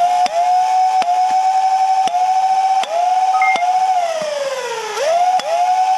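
Dual-stage flywheel dart blaster (a modified Worker Swordfish on a 3S LiPo) firing: its flywheel motors spin up to a loud, steady whine that dips briefly with each dart, five shots in the first four seconds. Then the whine winds down with a falling pitch, spins back up about five seconds in, and dips once more for another shot.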